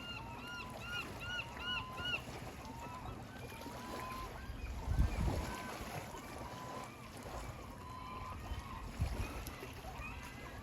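Waterbirds calling: many short, arched calls overlapping, with a quick run of them in the first two seconds. Two low thumps come about five and nine seconds in, over a steady low rumble.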